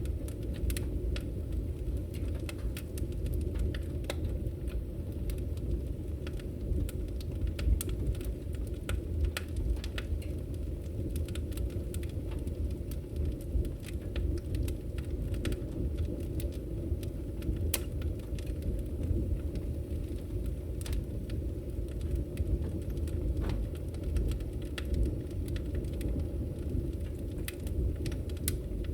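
Log fire burning in a fireplace: a steady low rumble of flames with frequent, irregular sharp crackles and pops.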